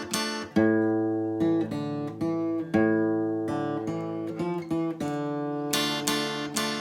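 Solo acoustic guitar playing a melody in single plucked notes that ring and fade, with fuller strummed chords about half a second, about three seconds and about six seconds in.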